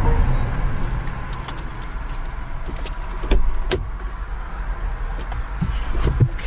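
Low rumble of a car, with scattered sharp clicks and a louder knock about three and a half seconds in.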